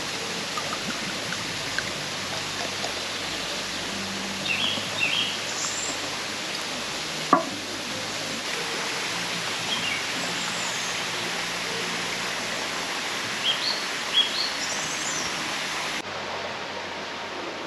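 Outdoor ambience: a steady rushing noise with short bird chirps heard now and then, a few in quick succession near the middle and again later, and one sharp click partway through. The rushing noise cuts to a different level abruptly near the end.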